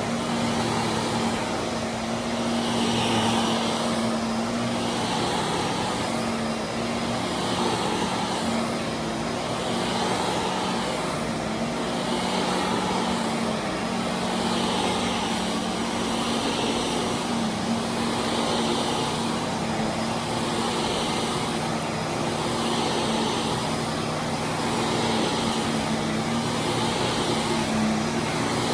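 A carpet-cleaning machine is pushed back and forth over carpet, its sound swelling and easing about every two seconds. Beneath it runs a steady hum from a pressure washer working in the basement.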